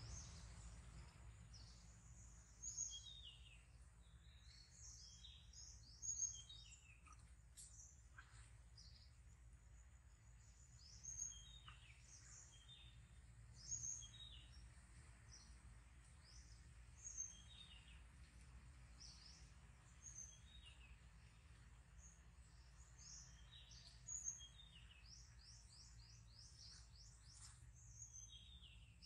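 Birds chirping: many short, high chirps, some falling in pitch, with a few louder calls now and then, over a faint low rumble.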